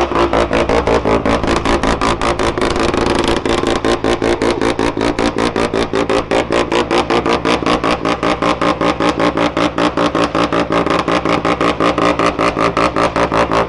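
Mazda FD RX-7's rotary engine idling with a choppy, even pulse of about seven beats a second, and a brief blip of revs about two seconds in.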